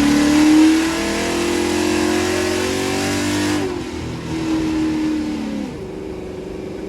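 Race truck's engine held at high revs during a burnout, with a loud rushing noise over it; about three and a half seconds in the revs drop, rise again briefly, and fall back near the end.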